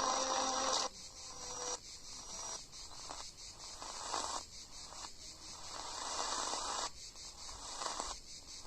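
Radio receiver tuned through the long-wave band: a few steady whistle tones for about the first second, then hiss and static that cut out briefly about once a second as the tuning steps on.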